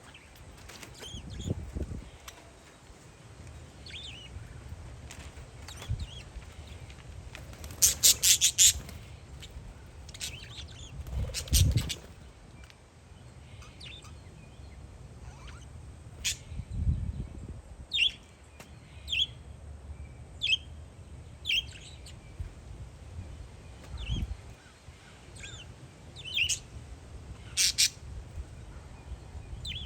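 Parakeets chirping, with short calls scattered throughout and a loud run of rapid calls about eight seconds in and again near the end. Wind gusts rumble on the microphone now and then.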